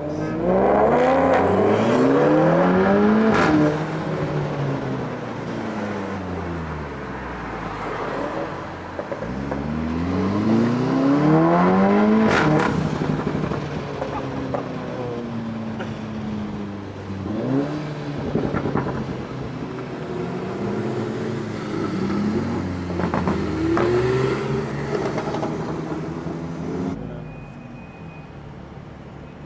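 Motorcycles accelerating hard past one after another, each engine note climbing in pitch and then dropping away as it passes. The two loudest passes come right at the start and about twelve seconds in, with smaller ones later.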